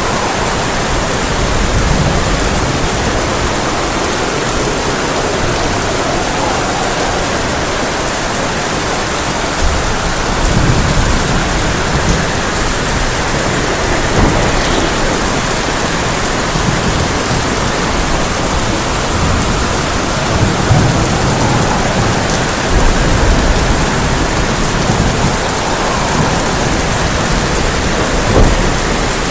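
Heavy rain falling steadily on a tin roof. Thunder rolls in low several times, with a sharper clap near the end.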